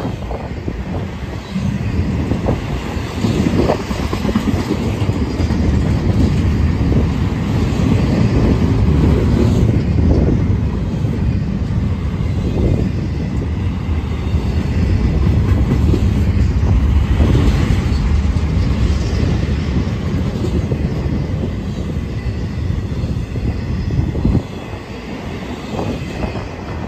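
Double-stack intermodal well cars of a freight train rolling past close by: a loud, steady rumble of steel wheels on rail with irregular knocks and clanks from the cars. The rumble drops somewhat near the end.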